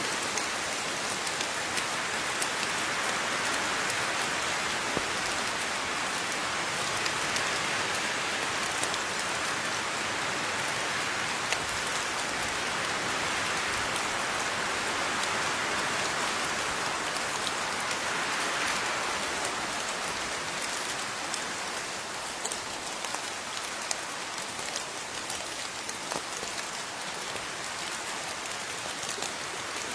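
Steady rain falling, with many small drops pattering on surfaces; the level swells and eases gently.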